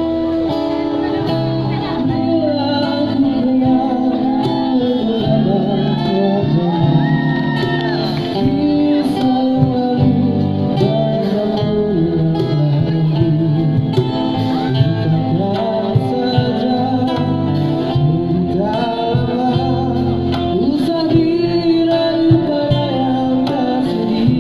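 A male busker singing a song over guitar backing.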